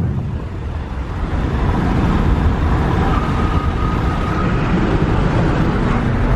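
Car engine and road noise heard from inside the cabin while driving at high speed: a steady, loud low rumble with rushing tyre and wind noise, swelling slightly about a second in.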